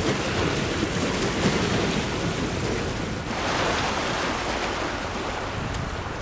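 Wind buffeting the microphone as a steady rushing rumble, swelling about three and a half seconds in.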